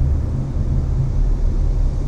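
Steady cabin noise of a Hyundai Avante cruising on a highway: a low, even road-and-engine rumble with the air-conditioner fan hissing over it.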